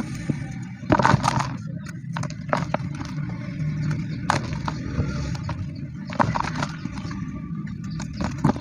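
Dry cement chunks crumbling and crushing, with irregular crisp crunches and crackles that come in clusters, over a steady low hum.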